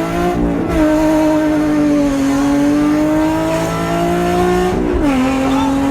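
Nissan 350Z's VQ35HR V6, naturally aspirated with a Tomei exhaust and test pipes, accelerating hard through the gears. Its pitch drops at a shift shortly after the start and again near the end, and stays high and loud in between.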